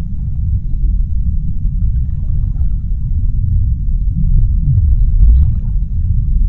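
Underwater ocean ambience: a dense, deep rumble, with a faint low gliding tone about four and a half seconds in.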